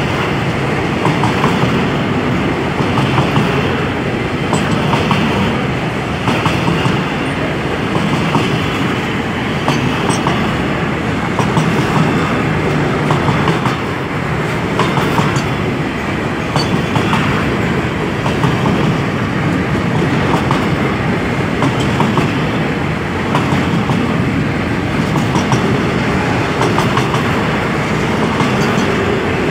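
Freight train of covered hopper wagons rolling past close by: a loud, steady rumble of steel wheels on rail with a rhythmic clickety-clack as the wheel sets cross the rail joints.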